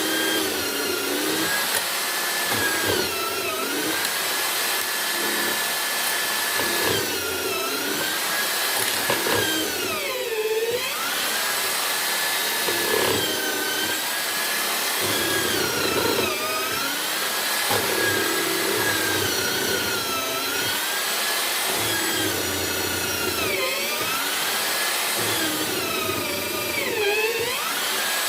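Electric motor of a homemade wood mortiser whining steadily. Its pitch sags briefly and recovers about every three seconds as the cutter takes load in the wood.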